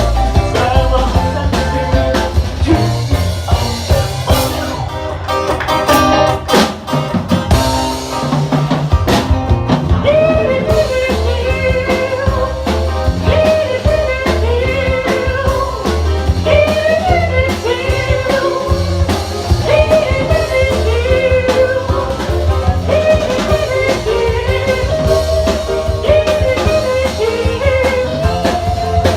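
Live rock band playing a bluesy number: electric guitar over bass and drum kit, with a run of sharp drum hits a few seconds in, then a lead line bending in pitch.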